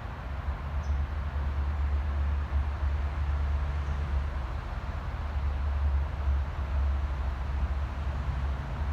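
Steady low rumble of distant city traffic, an even wash of car noise with no single vehicle standing out.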